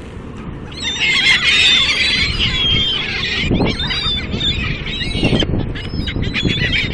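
A flock of seagulls calling and squawking over food: many overlapping harsh calls break out about a second in and keep going, loudest just after they start.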